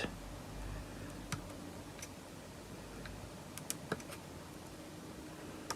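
A few faint, sparse clicks of hard plastic as a vintage-style action figure's limbs are worked back and forth, keeping joints softened by liquid poly cement from setting tight. A low steady hum lies underneath.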